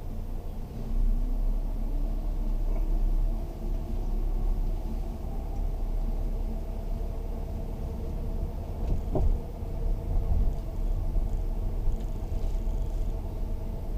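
Car engine running with a low rumble, its pitch climbing a little in the first few seconds. There is a sharp click about nine seconds in.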